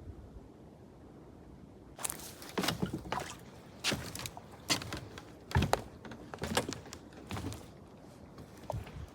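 Footsteps, about one a second, starting after a quiet first two seconds: each step a short sharp sound over low background noise.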